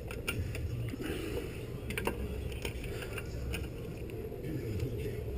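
Scattered light clicks and taps of small metal parts being handled and fitted during motorcycle reassembly, over a steady low background hum.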